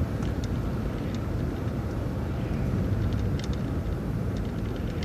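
Steady rumble of a moving city bus, engine and road noise heard from inside, with a few faint rattling clicks.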